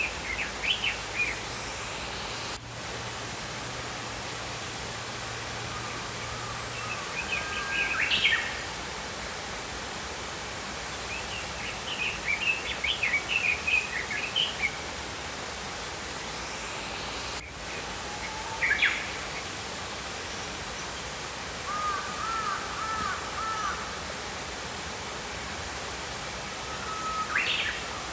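Small songbirds chirping and twittering in separate phrases every few seconds over the steady rush of a flowing stream.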